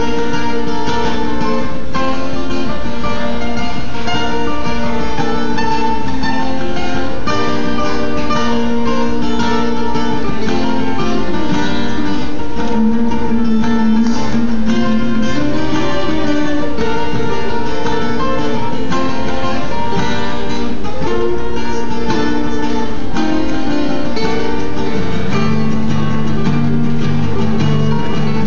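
Guitar playing an improvised solo: a continuous stream of plucked notes at a steady level.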